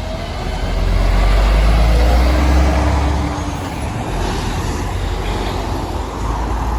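Road traffic: a heavy motor vehicle passing close by, its low engine rumble loudest for the first three seconds, then easing into steady traffic noise.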